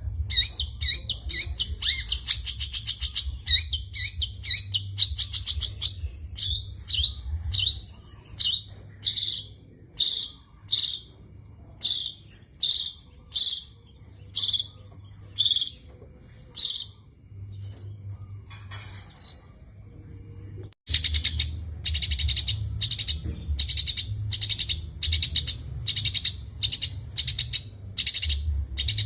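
Long-tailed shrike singing a song packed with mimicked phrases: first a rapid chatter, then sharp notes repeated about twice a second, a couple of downward-sliding whistles, and after a sudden break another fast run of repeated notes. A low hum runs underneath.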